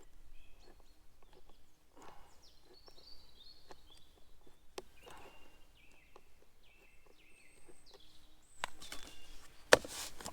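A songbird singing a run of short, high whistled notes that step down in pitch, over a few faint scuffs. Near the end comes a louder rustle and a sharp knock.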